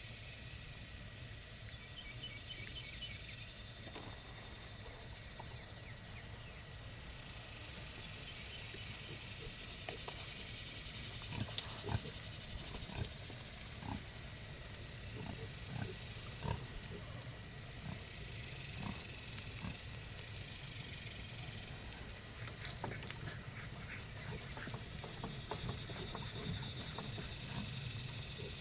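Pigs grunting quietly now and then, over a steady low rumble and a high hiss that comes and goes.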